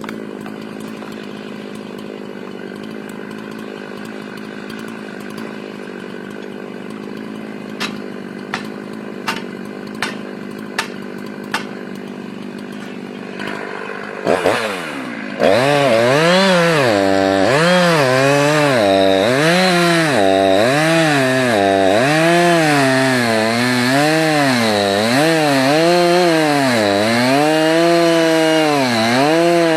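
Chainsaw idling steadily, with six sharp knocks about a second apart partway through. It is then revved up and cuts into wood, its pitch dipping and rising every second or so as the chain bites in.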